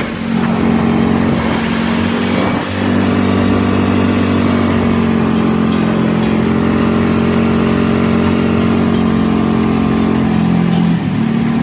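A vehicle engine running at a steady speed, its even drone shifting slightly in pitch about three seconds in and again near the end.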